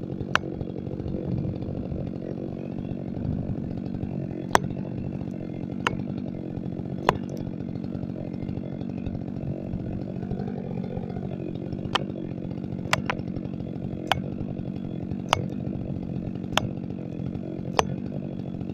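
Two-stroke chainsaw running steadily at high speed, with sharp clicks at irregular intervals, about one every second or two.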